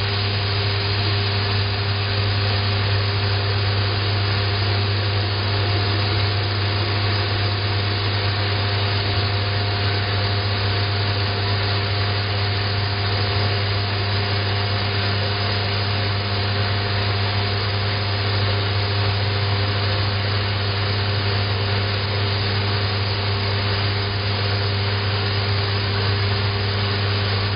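Two water taps running side by side, one through a flow-regulating water-saving aerator, water pouring and splashing steadily, over a constant low hum.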